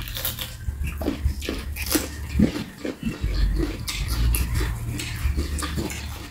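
Close-miked eating: chewing, biting and wet lip-smacking mouth sounds, with frequent short clicks.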